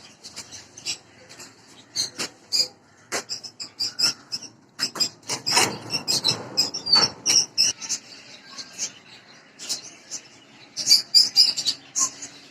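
A flock of lovebirds chirping and chattering in rapid, high-pitched calls that come in busy clusters, with a stretch of low rustling noise around the middle.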